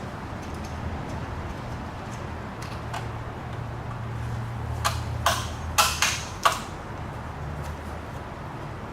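About five sharp clicks and knocks close together near the middle, over a steady low hum.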